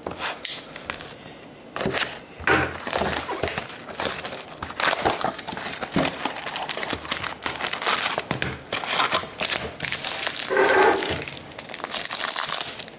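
Foil wrappers of hockey trading-card packs crinkling as the packs are torn open and handled, in a run of irregular rustles.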